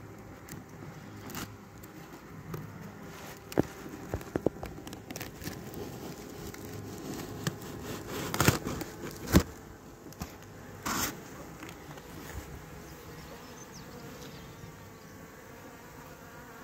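Swarm of honeybees buzzing steadily close by, with a few short knocks and clicks from handling the hive box and frames, the loudest two about eight and a half and nine and a half seconds in.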